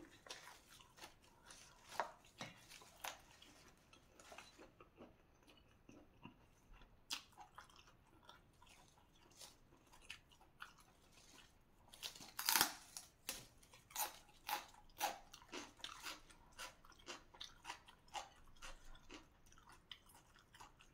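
A person chewing and biting crunchy raw vegetable stems, a run of small crisp crunches with a louder cluster of crunches about twelve seconds in.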